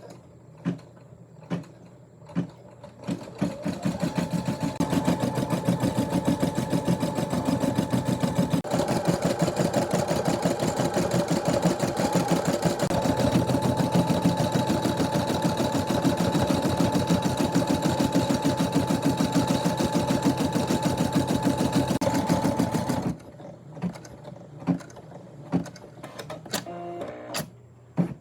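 Embroidery machine stitching at a fast, even rate. It starts a few seconds in and stops suddenly after about twenty seconds, with a few sharp clicks before and after.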